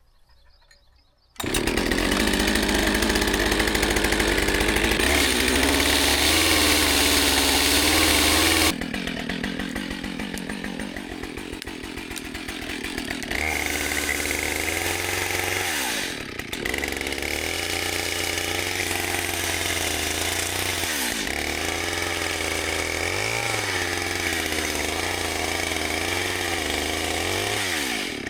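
Husqvarna 572 two-stroke chainsaw running, cutting in abruptly about a second and a half in. Its revs drop and climb again several times. It is kept short of full throttle while it is broken in so the piston rings seat.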